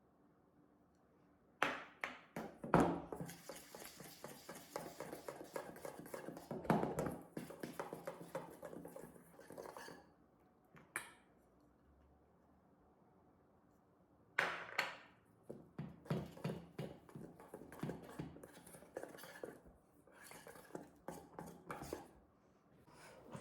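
Dishes and utensils clinking and clattering in quick runs of taps. There are two bouts with a pause between them.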